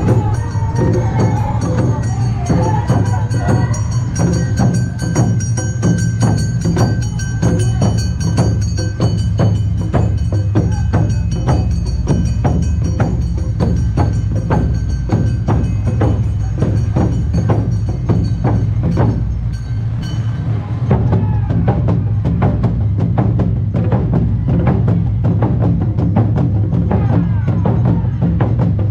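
Awa Odori festival band music: drums and a ringing kane hand gong beat a quick, steady rhythm, with other ringing tones held over it. About 20 seconds in the sound turns duller as the high ringing drops away.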